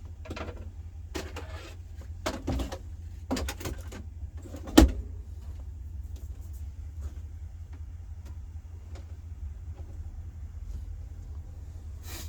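A handful of knocks and clatters in a small room, the sharpest and loudest about five seconds in, over a steady low hum.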